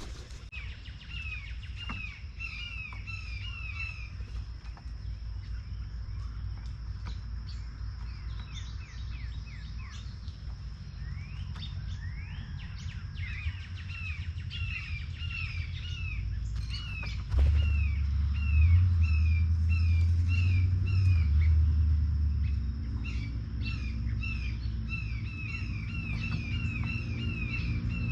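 A songbird singing repeated phrases of quick down-slurred whistled notes, several notes a second, with other birds chirping, over a steady high-pitched hum. A low rumble swells up about two-thirds of the way through and is the loudest sound.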